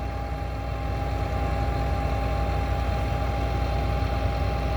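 Heavy farm machinery engine running steadily: a low drone with a steady whine above it.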